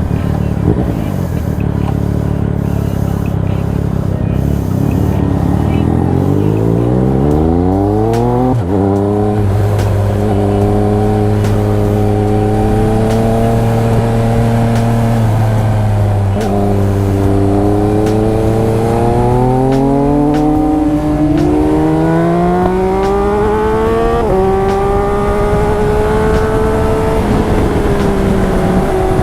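Triumph Speed Triple RS three-cylinder engine through an SC Project titanium exhaust, pulling hard on the road: after a low rumble the pitch climbs steeply, drops at a gear change about eight and a half seconds in, and holds at speed. Two more rising pulls follow, with the pitch stepping down again around sixteen and twenty-four seconds in.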